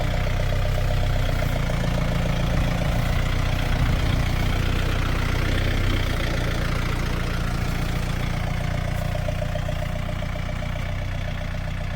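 Yanmar A-series tractor's diesel engine running steadily, its note shifting briefly between about two and six seconds in.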